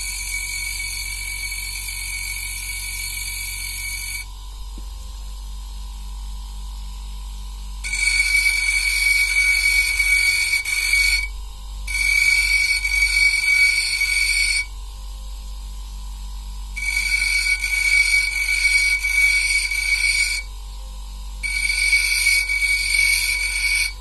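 Opal being ground on a small motor-driven grinding wheel: a steady motor hum under five separate bursts of a high, whining grind, each starting and stopping abruptly, as the stone is worked against the wheel in short passes.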